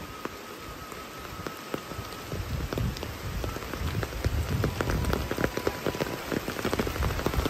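Rain falling around a village house, many separate drops ticking close by; it grows louder about two seconds in.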